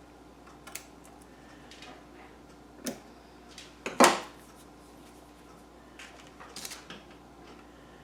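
Scattered small clicks and knocks of crafting tools and materials being handled on a tabletop, with one sharp, louder knock about four seconds in.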